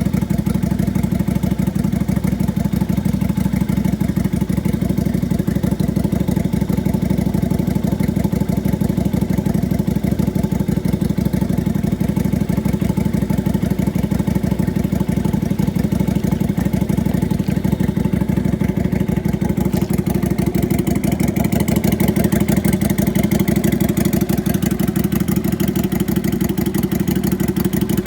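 Lifan Lycan 250 motorcycle's air-cooled V-twin engine idling steadily. It turns a little brighter and louder about twenty seconds in.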